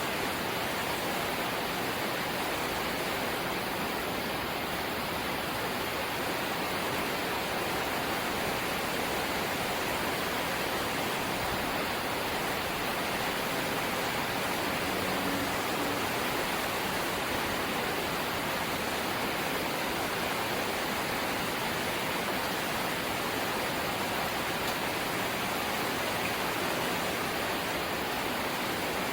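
Steady rain falling on a house's zinc sheet roof, a dense even hiss without breaks.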